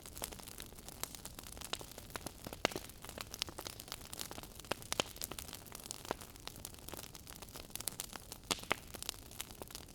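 Wood fire in a fireplace crackling, with frequent irregular sharp pops over a steady soft hiss.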